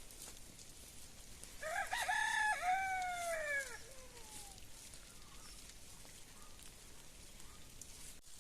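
A rooster crowing once, starting about a second and a half in and lasting about two seconds, its call ending in a long falling note.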